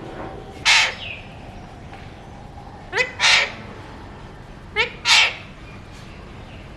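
A pet parrot gives three loud, harsh calls. The second and third each open with a short rising note.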